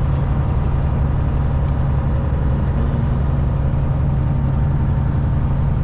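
Semi truck's diesel engine running steadily with a low, even hum, heard from inside the cab while driving.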